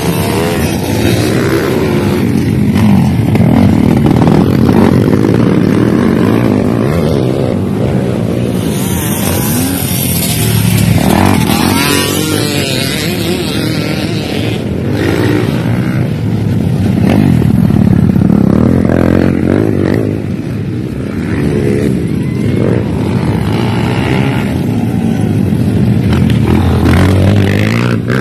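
Motocross dirt bike engines revving hard, rising and falling in pitch and swelling louder several times as bikes race past.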